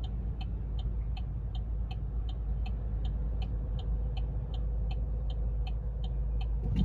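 Steady low rumble of a car heard from inside the cabin as it drives slowly, with a turn-signal indicator clicking evenly, about three ticks a second.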